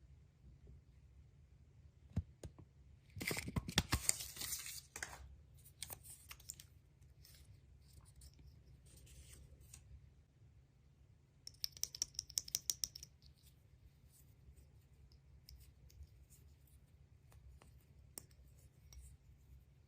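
Surprise-egg packaging being torn open and handled. There is a dense crackling tear a few seconds in, then scattered rustles and clicks, and about halfway a quick run of a dozen or so sharp clicks.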